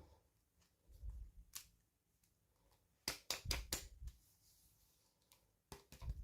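Hands handling small plastic toy packaging: a few soft knocks, then a cluster of four sharp clicks about three seconds in and two more near the end.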